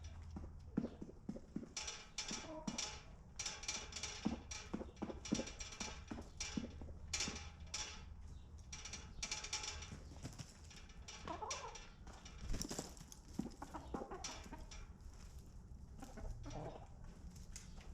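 Chickens in a coop clucking now and then, with a few short calls, amid many quick scratchy clicks and rustles.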